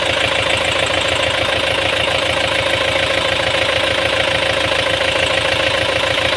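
Kubota M9540 tractor's freshly rebuilt four-cylinder diesel engine running steadily at idle, smooth and even. It was overhauled for worn piston rings that blew white smoke from the crankcase breather.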